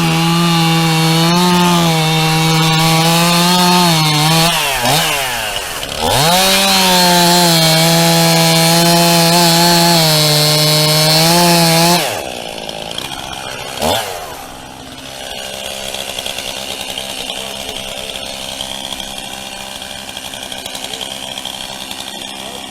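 Two-stroke chainsaw running at full throttle, cutting through a fallen white oak log. It eases off about five seconds in, cuts again at full speed until about twelve seconds in, then drops back to a quieter idle with one quick rev near fourteen seconds.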